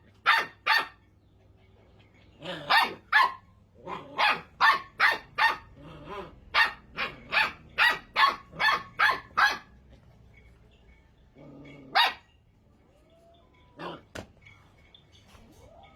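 Puppy barking in quick runs of short, sharp barks, about two or three a second, then two single barks near the end.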